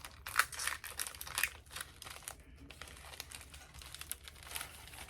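Plastic snack wrapper crinkling and rustling in irregular crackly bursts as a small pouch of Oreo wafer rolls that was torn open badly is worked open and the rolls are pulled out.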